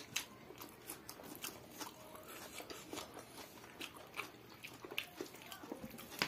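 Close-miked eating sounds: chewing and wet mouth clicks of people eating rice and chicken with their hands, faint and irregular.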